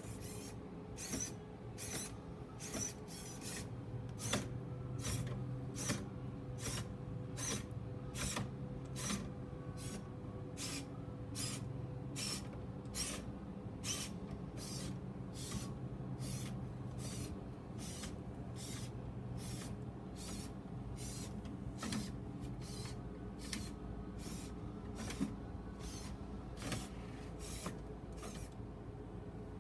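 Battery-powered toy robot running: a steady motor hum with regular mechanical clicks about twice a second, which stop shortly before the end.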